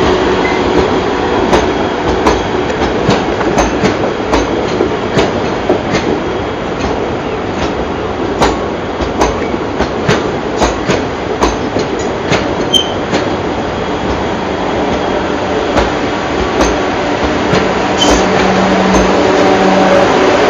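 South Western Railway passenger train moving along the track, with a steady run of wheel noise and repeated sharp clicks as the wheels pass over rail joints. A couple of brief high wheel squeaks come in the second half.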